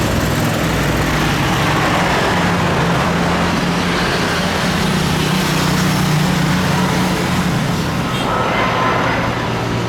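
Loud, steady engine noise with a low droning hum underneath and no sudden events.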